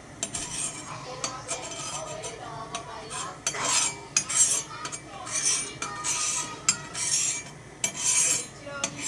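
Spoon stirring okonomiyaki batter in a bowl, scraping against the bowl in short strokes about once a second, with light clinks.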